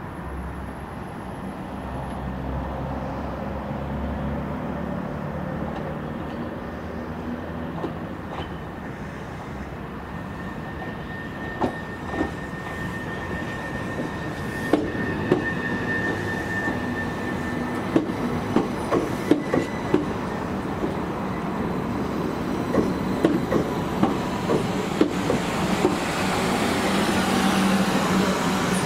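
Southern Class 377 Electrostar electric multiple unit arriving slowly alongside the platform, growing steadily louder as it draws near. From about a third of the way in its wheels click over the points and rail joints, and a thin high squeal holds for several seconds around the middle.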